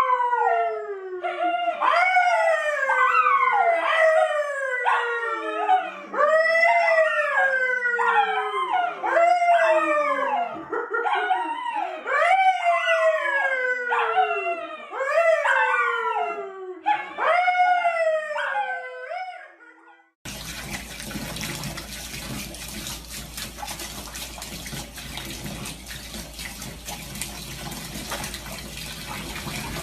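A dog howling over and over, each call rising briefly and then sliding down in pitch, for about twenty seconds. Then it cuts off abruptly to a steady rush of running water.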